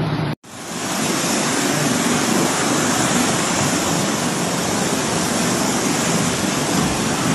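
Floodwater rushing in a steady, loud, unbroken rush of water noise. There is a brief break just after the start.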